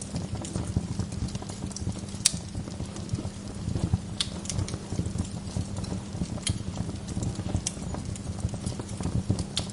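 Wood fire in a fireplace crackling steadily, with a sharp pop every second or two; the loudest pop comes about two seconds in.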